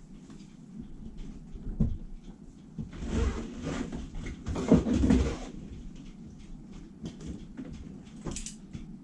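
Scattered knocks and handling noises, with a louder stretch of rubbing and scraping from about three to five and a half seconds in.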